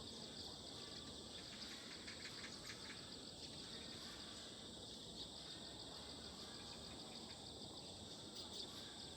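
Steady insect chorus: a continuous high, finely pulsing shrill trill throughout, with a few faint short ticking notes lower down between about one and a half and three seconds in.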